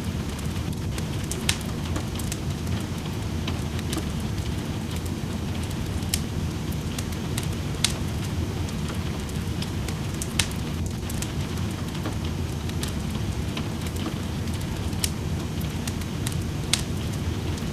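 Wood fire crackling in a fireplace, with sharp pops every second or two, over a steady rush of rain.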